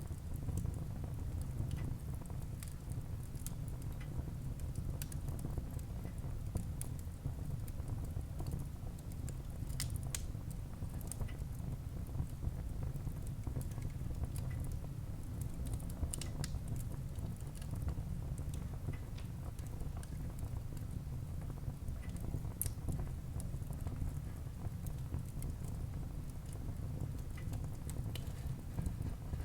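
Wood fire burning in a fireplace: a steady low rumble of flame under scattered crackles, with a few sharper pops about ten, sixteen and twenty-two seconds in.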